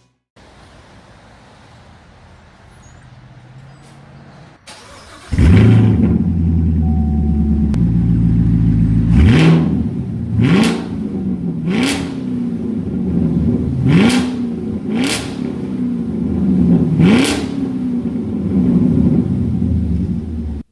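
A car engine is started about five seconds in and then revved in about six sharp throttle blips. Each blip rises quickly in pitch and then falls back to idle.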